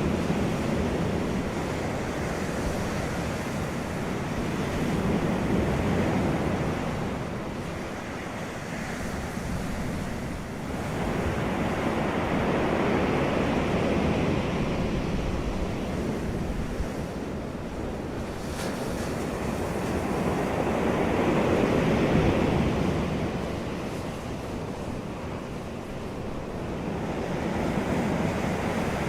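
Wind blowing across the microphone in a continuous rush that swells and eases every several seconds.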